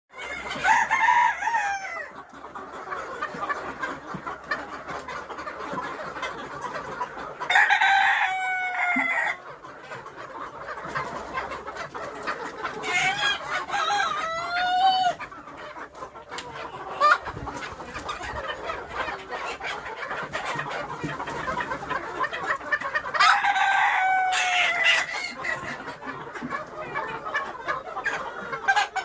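A flock of Sonali chickens clucking steadily, with roosters crowing four times in long, loud crows.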